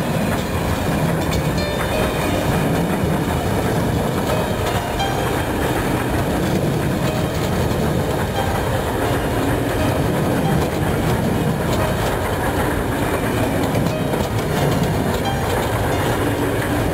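Freight train wagons, tank cars and then loaded log wagons, rolling steadily past close by: a continuous low rumble of steel wheels on rail, with clacks over the rail joints.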